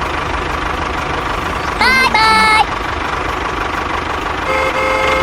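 A small tractor engine running steadily with a low hum. A horn toots twice about two seconds in, the second toot louder and longer. A quieter, longer horn tone comes near the end.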